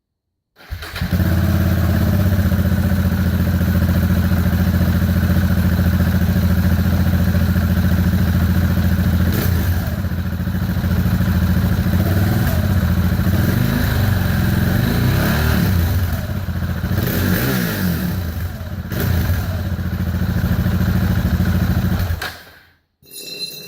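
2014 KTM 690 Duke's single-cylinder engine, catalytic converter removed, running through an Ixil Hexoval Xtreme Evolution silencer with its largest baffle fitted. It idles steadily, then from about nine seconds in is revved up and down several times, and cuts off suddenly near the end.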